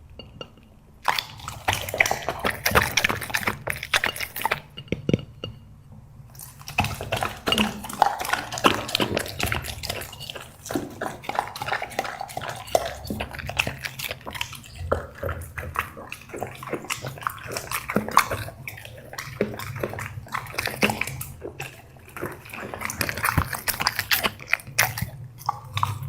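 Black Labrador chewing and smacking its food with wet, irregular mouth clicks, with a brief pause about five seconds in.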